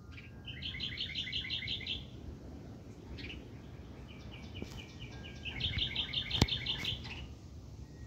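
A songbird singing two trilled phrases of quickly repeated chirps, about eight notes a second: a short one soon after the start and a longer, louder one in the second half. A single sharp click sounds near the end of the second phrase.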